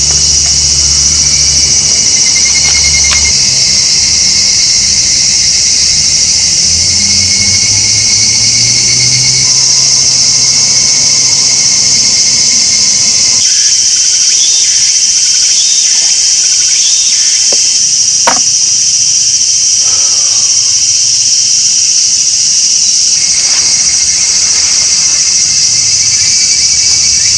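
Insect chorus: a loud, steady, high-pitched buzzing. A low rumble runs under it for the first half, and there is a single sharp click about two-thirds of the way in.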